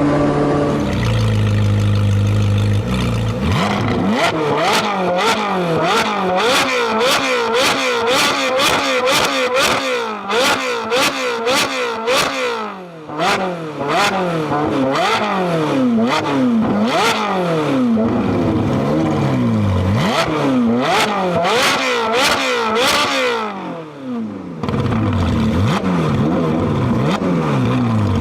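Sports car engine through a loud exhaust, running at a steady low note, then revved over and over in quick throttle blips, its pitch rising and falling several times a second, with sharp pops and cracks among the revs. It drops off briefly near the end, then the revving starts again.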